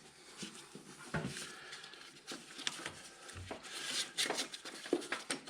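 Faint rubbing and light clicks of hands working the loosened auxiliary drive belt off the engine's pulleys, with a brief low thud about three and a half seconds in.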